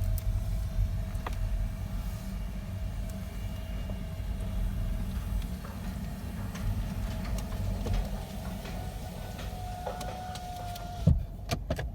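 Conveyor car wash tunnel heard from inside the car: a steady low rumble of the car and the wash machinery as the car is pulled through, with a faint steady whine that rises slightly and then cuts off. A few sharp knocks come near the end.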